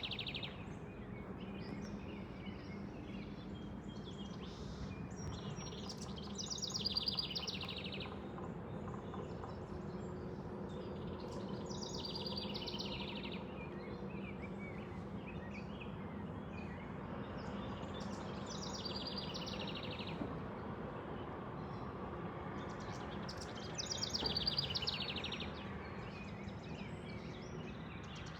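Bird song: a bird repeats a rapid, high trilled phrase of about a second and a half every five or six seconds, with softer chirps between. A steady low hum runs underneath.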